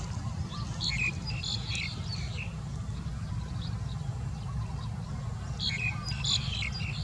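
A bird chirping in two short flurries of quick high chirps, about a second in and again near the end, over a steady low rumble.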